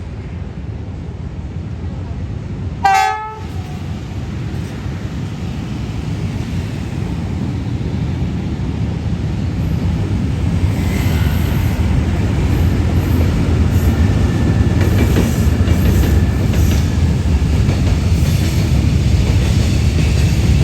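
A train approaching on the line: one short horn blast about three seconds in, then the low rumble of the train growing steadily louder, with wheels clicking over the rail joints in the second half.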